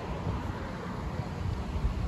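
Low rumble of a diesel passenger train pulling away, with wind on the microphone.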